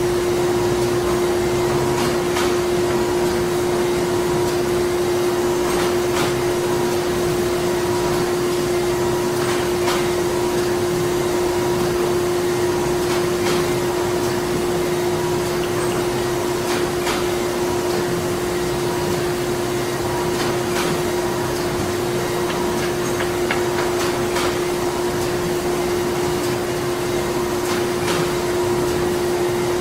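Printing-plant machinery running steadily: a constant hum with one strong, steady tone over a dense wash of machine noise, with faint irregular clicks now and then.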